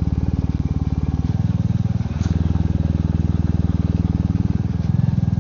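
Royal Enfield Meteor 350's single-cylinder engine running on the move, with a steady fast thumping beat. The engine note shifts in steps a few times as the throttle changes.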